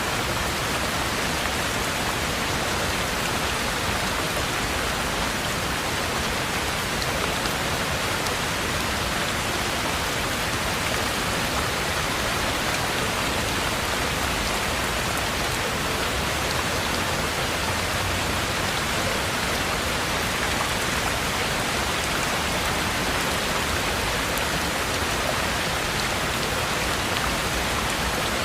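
Heavy rain falling steadily on a treehouse cabin, a dense, even hiss of rain with no let-up or change.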